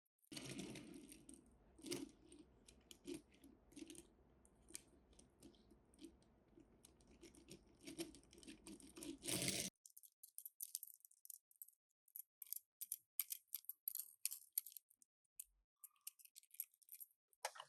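Faint clicks and light taps of small die-cast toy cars and their packaging being handled, with a soft rustle in the first half. After that, only scattered quick clicks.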